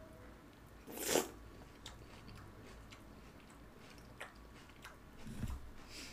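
Eating a spoonful of Kellogg's Chex cereal soaked in milk: a loud crunchy bite about a second in, then quiet chewing with a few light clicks and a soft thump near the end.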